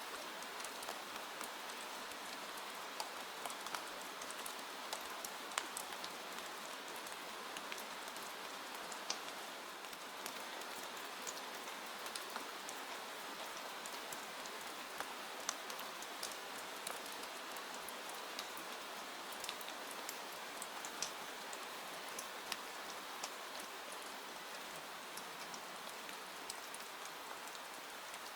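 Steady rain hiss with scattered sharp ticks and pops at irregular moments throughout.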